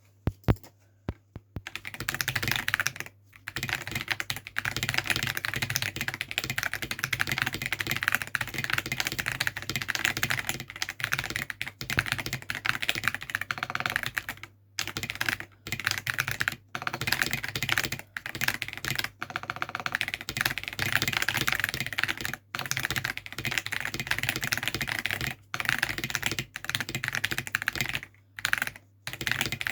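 Mechanical keyboard being typed on fast and continuously in bursts of rapid keystrokes, with brief pauses; a few single key presses come first.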